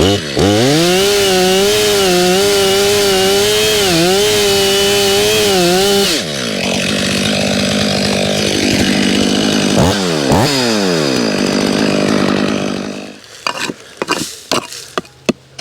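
Two-stroke Stihl chainsaw running at full throttle in a felling cut on a tree. Its pitch drops about six seconds in, dips and recovers near ten seconds, then cuts off about thirteen seconds in, followed by a few sharp clicks.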